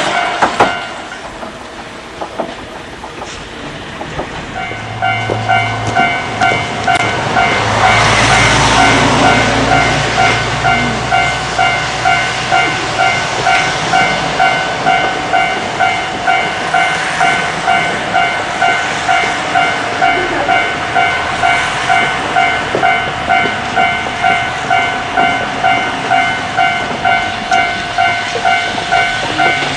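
Railway level-crossing alarm ringing in an even pulsing tone, about one and a half strokes a second, starting about five seconds in. Under it an old Class 73 electric train runs on the rails, with a low rumble and rail clatter strongest early on.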